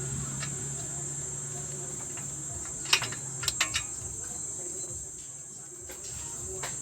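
Steady high-pitched insect trill, with a quick cluster of four or five sharp clicks about three seconds in.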